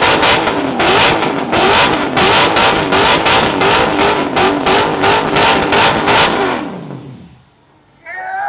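Car engine held at high revs during a burnout, pulsing about four times a second as if bouncing off the rev limiter, then dying away about seven seconds in.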